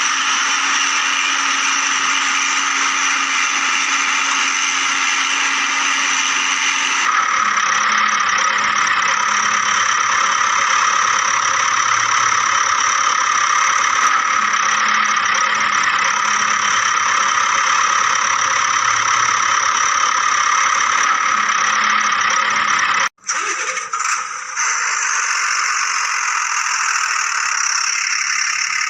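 Steady engine-like running drone, with the tone shifting about a quarter of the way in; it cuts out abruptly for a moment late on, then carries on.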